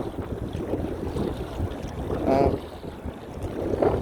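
Wind buffeting the microphone, a steady low rumbling noise. A short vocal sound breaks in about two seconds in and again near the end.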